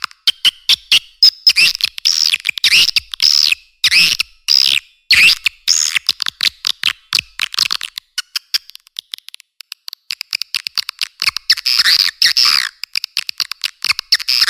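Swiftlet calls: rapid trains of dry clicks, with dense bursts of chirps in the first half and again near the end. This is a swiftlet lure recording of the kind played to draw swiftlets into a nesting house.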